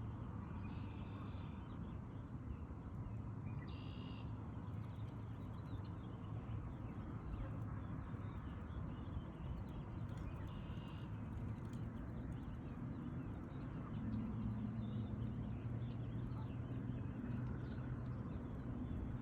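Shoreline outdoor ambience with a steady low rumble and a few short, distant bird calls: two near the start and one about eleven seconds in. A low hum comes in for the last few seconds.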